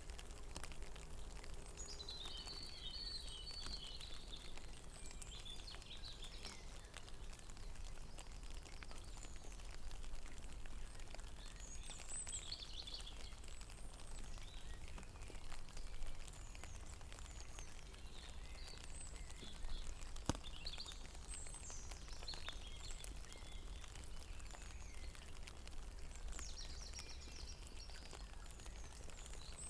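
Light rain falling on a pond, a steady patter with now and then a single louder drop, while small birds sing short, high chirping phrases several times.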